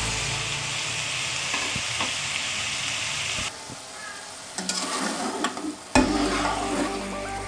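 Chicken karahi frying in a metal pot, sizzling steadily as chopped tomatoes and green chillies go in. About three and a half seconds in the sizzle drops away and a metal spoon scrapes and clatters in the pot, with a sharp knock about six seconds in.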